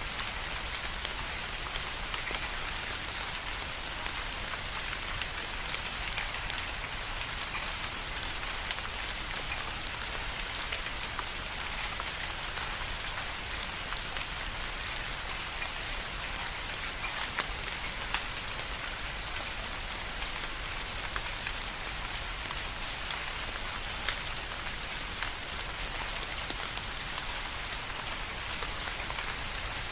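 Steady rain falling, a dense even hiss of many drops with small individual drop ticks scattered through it.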